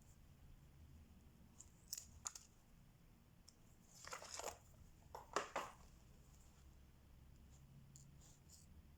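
Quiet diamond-painting handling sounds: two light ticks, then a short crinkling rustle about four seconds in and a few sharper clicks just after, over a faint low room hum.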